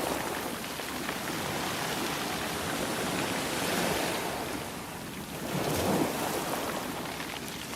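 Sea waves washing in and breaking, a steady hiss that swells and ebbs, with a wave rising about four seconds in and another about six seconds in.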